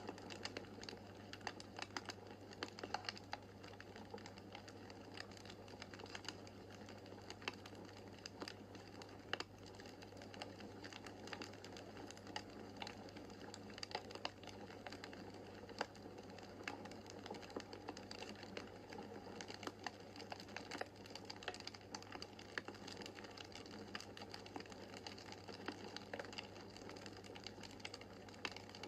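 Wood fire in a fireplace crackling, with frequent small sharp pops over a soft steady rush of the flames and a low steady hum beneath.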